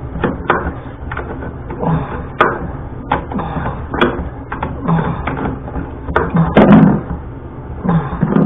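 A hand tool and needle-nose pliers working the nut off a rusted toilet floor bolt that spins in place, making irregular metal clicks, knocks and scrapes.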